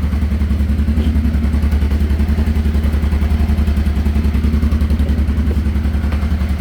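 1989 Honda Transalp's 583 cc V-twin idling steadily with an even, fast pulsing beat. It is warming up after a cold start on half choke, at about 1,300 rpm.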